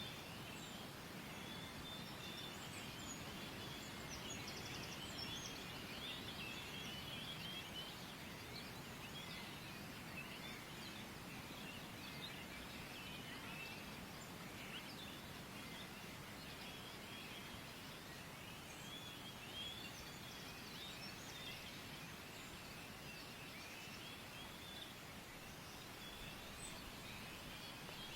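Faint outdoor ambience: many small birds chirping and twittering continuously over a steady low hiss.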